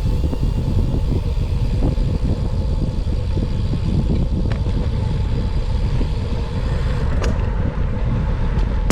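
Steady wind rumble on the microphone of a camera riding along on a moving road bike, with road and traffic noise underneath.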